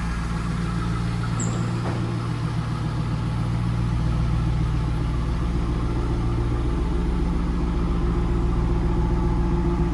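2001 Pontiac Trans Am's LS1 V8 idling steadily after a cold start, its pitch shifting slightly about seven seconds in.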